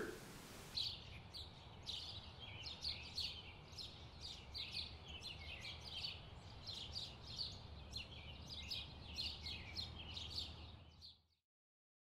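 Small songbirds chirping, many short high notes in quick succession, over a faint low background rumble; it all cuts off shortly before the end.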